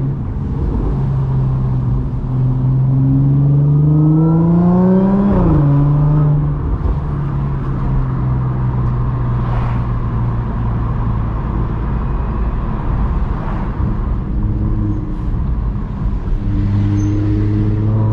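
Audi S4 B8.5's supercharged V6, running through an AWE exhaust with test pipes, accelerating. Its note rises for about three seconds, drops sharply at an upshift about five seconds in, then holds steady at cruising speed before picking up again near the end.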